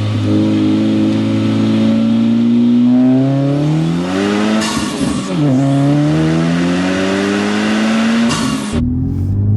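Modified Honda Civic Type R FL5's turbocharged four-cylinder engine and exhaust accelerating hard through the gears: the engine note climbs, drops at an upshift about five seconds in with a burst of hiss, climbs again, then falls away as the throttle is lifted just before the end.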